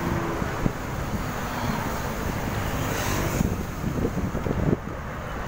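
Wind rushing over the microphone during a bicycle ride: a steady, rumbling noise with irregular gusty buffets.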